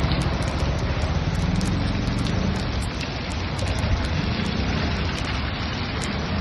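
Steady rain falling, with a low rumble of road traffic underneath.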